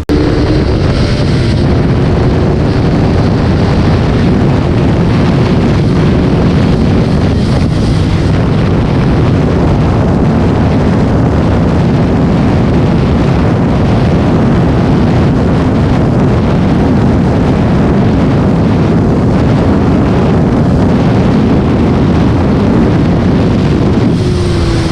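KTM RC 390's single-cylinder engine running while the motorcycle is ridden, largely buried under loud wind rushing over the microphone. The engine note falls slightly near the start and again near the end.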